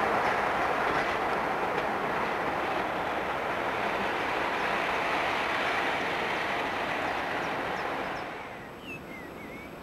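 Locomotive-hauled passenger train behind a DB class 110 electric locomotive rolling past, a steady rumble of wheels on rail with a few faint clicks. It fades away about eight seconds in, and a bird chirps a few times near the end.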